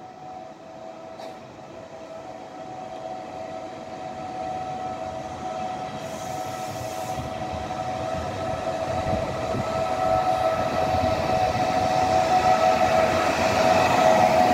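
Trenitalia regional train, an E.464 electric locomotive hauling Vivalto double-deck coaches, approaching along the track and growing steadily louder. A steady whine sits over the rising rumble of wheels on rail.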